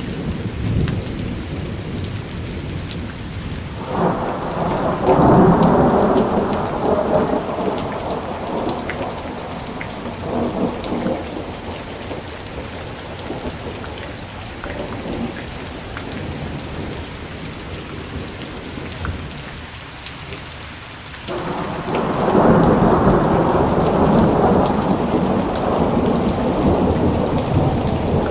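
Thunderstorm: steady rain with two long rolls of thunder, the first breaking about four seconds in and dying away slowly, the second rising about three quarters of the way through and rumbling on.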